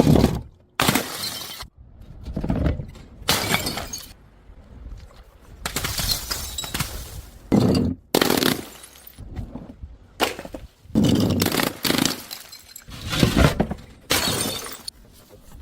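Glass bottles smashing and shattering one after another, about a dozen separate crashes with breaking glass after each.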